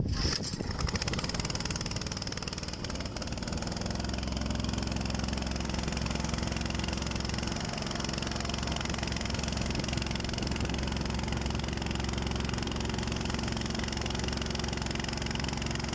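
An engine idling steadily, with an even low hum that settles in about four seconds in.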